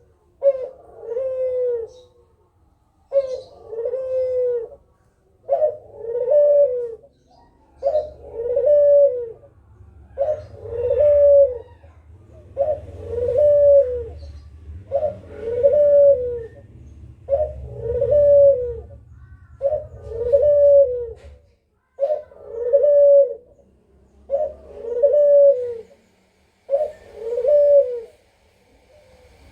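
Kugeruk bird giving a repeated low, arched call, a note that rises and falls, about every two and a half seconds, a dozen times over.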